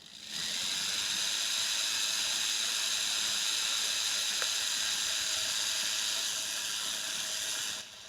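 Surgical rotary handpiece spinning a tungsten carbide burr, dermabrading the raw margin of a split earlobe: a steady high-pitched motor whine that starts just after the beginning and cuts off shortly before the end.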